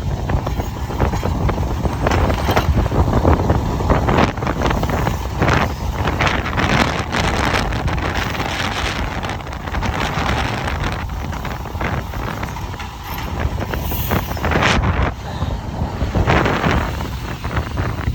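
Wind buffeting the microphone in gusts, over the steady rumble of a vehicle running.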